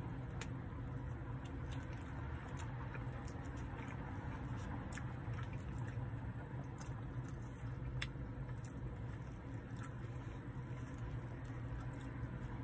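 Eating sounds: chewing of chili cheese fries and a plastic fork picking at a paper tray, heard as scattered small wet clicks. Under it runs a steady low hum inside the car.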